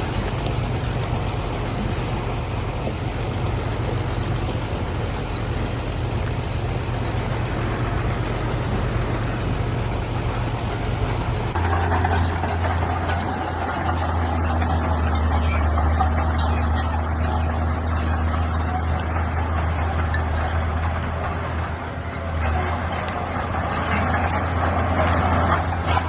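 Diesel engine of heavy earthmoving machinery running steadily. About twelve seconds in, the sound changes abruptly to a stronger engine drone with rapid clicking and rattling over it.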